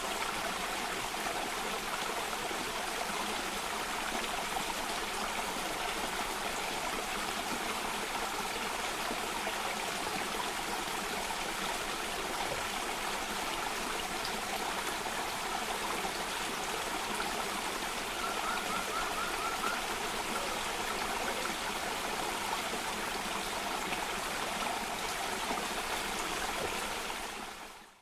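Cascading stream water flowing steadily. A short bird trill of a few quick notes comes about two-thirds of the way in, and the water sound fades out right at the end.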